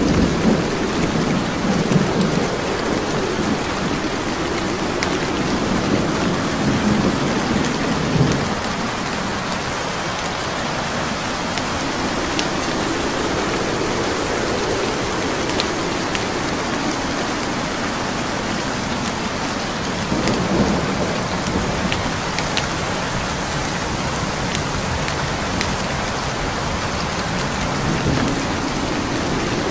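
Steady heavy rain with slow low rumbles of thunder, strongest over the first eight seconds, again about twenty seconds in and near the end. Sparse small crackles of burning wood logs sound over it.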